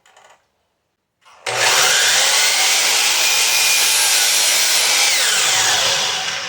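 Power saw cutting wood: it comes in sharply about a second and a half in and runs steady, then winds down with a falling pitch near the end.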